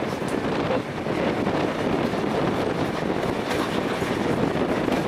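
Passenger carriage of a steam-hauled train rolling along the track: a steady rumble with the wheels clattering over the rail joints.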